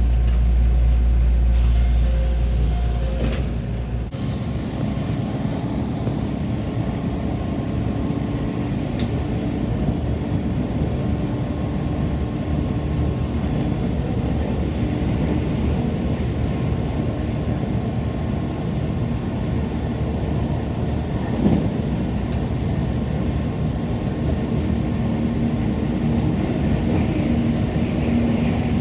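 Train running, a steady rumble of wheels and motors; a heavier low rumble in the first four seconds drops away abruptly, with one brief knock about 21 seconds in.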